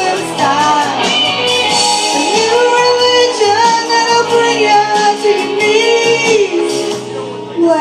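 A female vocalist singing live over a rock-ballad band accompaniment, holding long notes.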